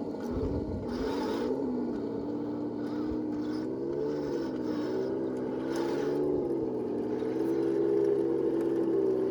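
RC model M46 Pershing tank's electric drive motors and gearboxes whining as it drives, the pitch rising and falling with speed, with a few low knocks in the first second.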